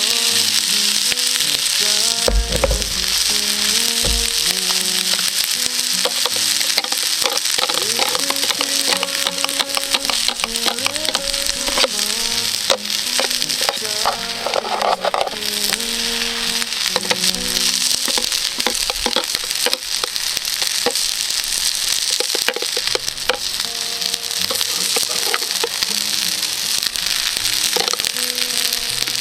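Food sizzling steadily in a hot frying pan, with frequent clicks and scrapes of stirring. Background music plays over it.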